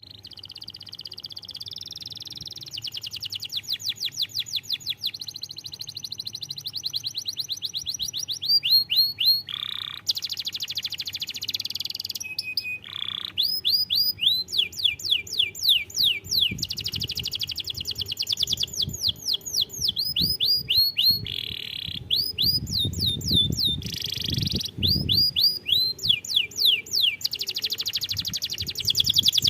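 Domestic canary singing a long, unbroken song of fast trills. Each trill is a rapid run of high notes sweeping downward, many per second, and the bird switches to a new trill every few seconds.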